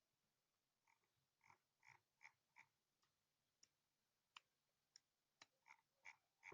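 Faint, irregular clicks, about a dozen of them, of a computer mouse being used to navigate a map on screen.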